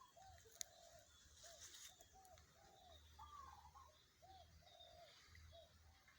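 Faint bird calls: short arched notes repeated many times, with a higher fainter twittering above them. There is a single sharp click about half a second in.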